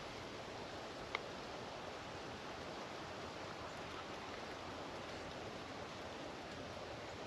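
Steady, even outdoor background hiss with a single short tick about a second in.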